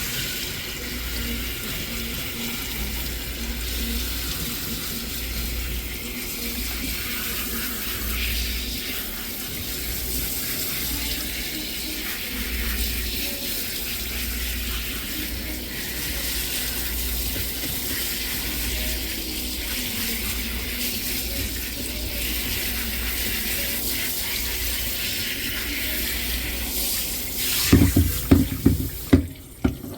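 Water running steadily while a dog is rinsed during a bath. Near the end comes a quick series of loud low thumps, and then the water shuts off.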